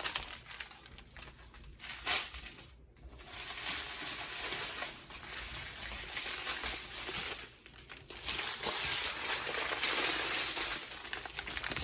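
Small plastic bags of diamond-painting drills crinkling and rustling as they are handled, with a brief lull about three seconds in.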